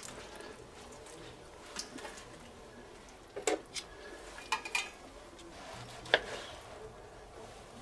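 Dishes and cutlery clinking, a handful of short sharp clinks over a low room background.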